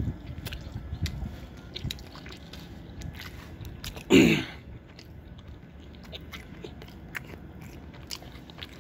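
Close-up chewing: a person eating chicken in gravy with roti, with many small wet clicks and crunches of the mouth. About four seconds in there is one short, loud rush of breath-like noise.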